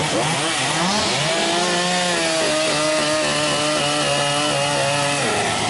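Chainsaw engine revving, then held at a steady high speed for several seconds before dropping back near the end.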